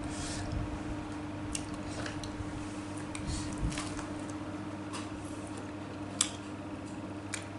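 Close-up wet chewing and mouth smacks while eating spicy tofu, heard as scattered short clicks and squelches, over a steady low hum.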